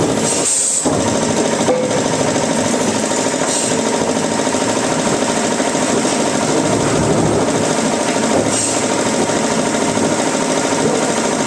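Woodworking machinery running steadily, a dense, even mechanical clatter with a brief dip about half a second in.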